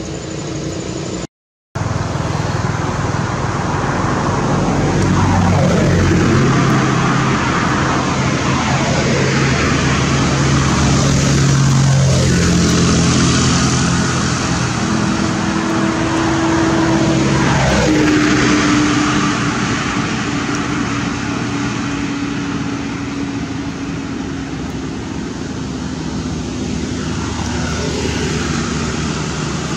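Road traffic: a steady engine rumble, with vehicles passing close by one after another, each one's pitch falling as it goes past. The sound cuts out briefly about a second and a half in.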